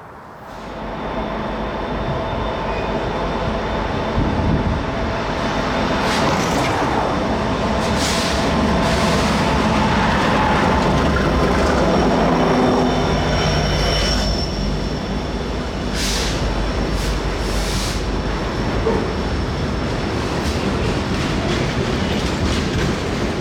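Diesel freight train passing as it rounds a curve on an upgrade, locomotives working under load with a steady rumble. The wheels squeal thinly in the curve, with a few sharp clanks along the way.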